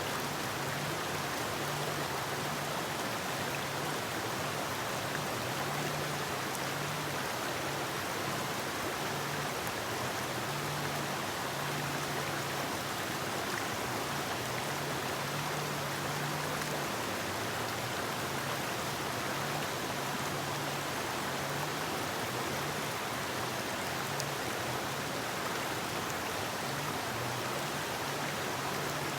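Forest river flowing: a steady rush of running water.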